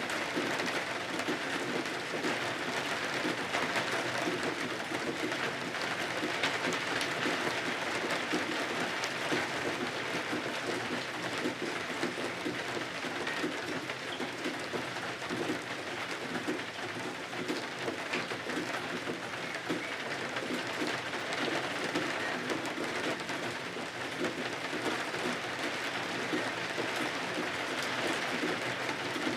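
Steady rain falling against windows, a dense even patter of drops without a break.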